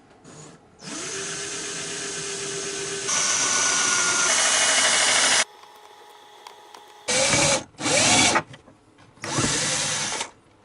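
Electric power drill working wood: one long run of about four seconds that gets louder partway, then, after a pause, three short trigger bursts, each spinning up at the start.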